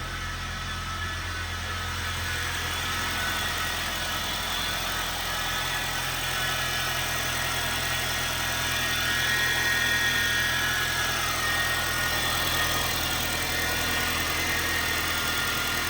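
Honda Fit's 1.5-litre four-cylinder engine idling steadily, freshly restarted after a valve adjustment, with a high whining noise over the idle that the owner puts down to the crankshaft pulley.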